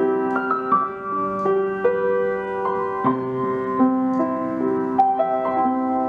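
Background music: a gentle piano melody, single notes and chords struck about every half second and left ringing.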